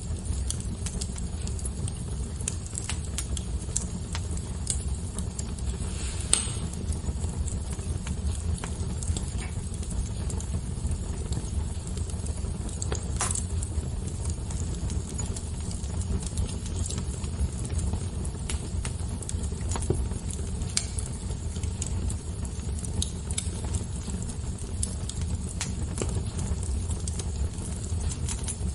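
Wood fire crackling: irregular sharp pops and snaps over a steady low rumble, with a few louder pops about six and thirteen seconds in.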